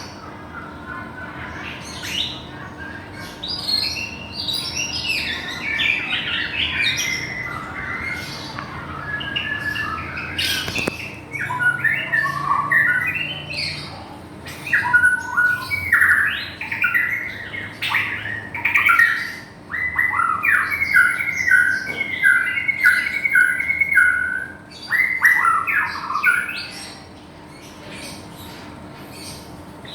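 White-rumped shama (Medan-type murai batu) singing a long, varied song of whistles, chirps and quick phrases, with a run of short repeated notes about two-thirds of the way in. The song quietens near the end.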